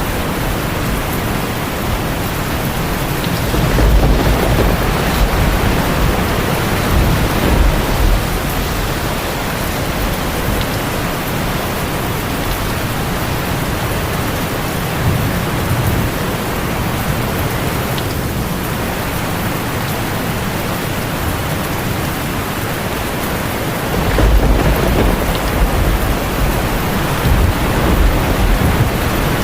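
Heavy rain falling steadily on a tin roof, with two low rolls of thunder swelling up, one about four seconds in and another near the end.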